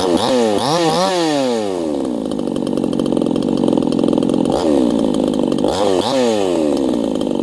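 Red Nut 58cc Chinese two-stroke chainsaw running. Its engine pitch rises and falls back twice, once about a second in and again around five to six seconds in. It is running unhappily on the low-speed mixture, which the owner takes to need more fuel in the low.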